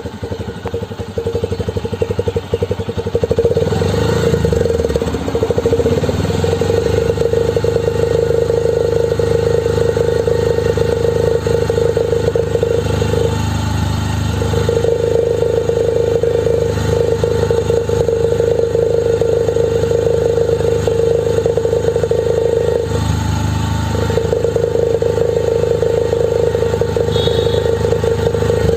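Ordinary motorcycle, fitted with a homemade modification meant to make it sound like a KTM Duke, running with a loud, steady buzzing note. The note drops out briefly twice, about halfway through and again near the end.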